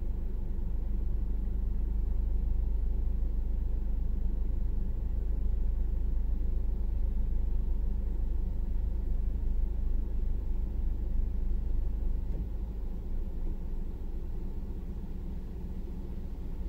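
Steady low rumble of an idling vehicle, heard from inside its cab; it eases off slightly about twelve seconds in.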